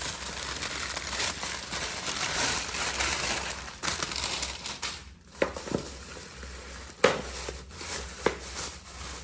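Plastic food packaging crinkling as it is handled and opened, with about three sharp clicks in the second half.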